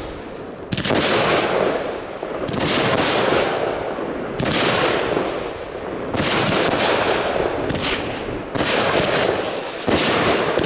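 Fireworks going off: a run of sharp bangs, about six, each followed by a long noisy crackle and echo that carries into the next.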